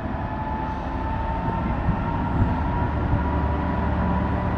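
Diesel locomotive running, a low rumble with a steady whine that slowly rises in pitch.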